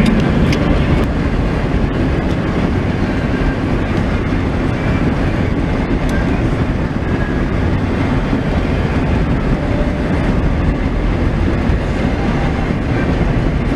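1998 Chevrolet K1500 pickup on the move, its 6.5-litre turbodiesel V8 running steadily under a continuous road rumble.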